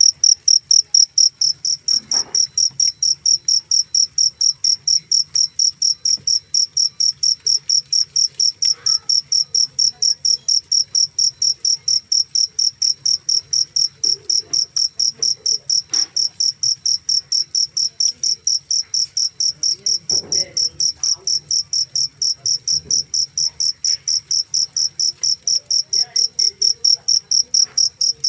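Cricket chirping loudly: a shrill, high-pitched chirp repeating evenly, about four times a second.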